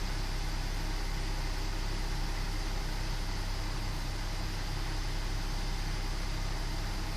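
BMW 520i E60's 2.2-litre M54 straight-six idling steadily.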